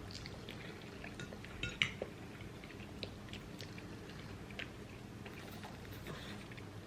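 Forks clinking and scraping on plates while eating pasta, with faint chewing; scattered light clicks, the sharpest a little under two seconds in.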